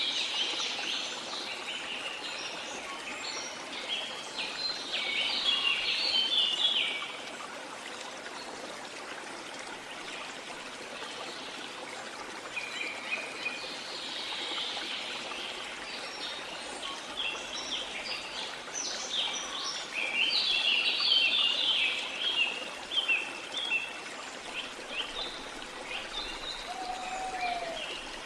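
Birds chirping and calling in quick rapid bursts over the steady rush of a waterfall. The birdsong comes in spells: at the start, again briefly around the middle, and in a longer run in the second half.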